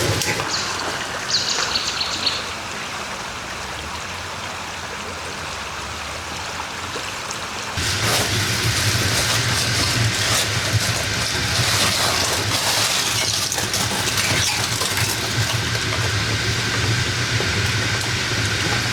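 Dough frying in hot oil over a wood fire: a steady sizzle with small crackles and pops, louder from about eight seconds in.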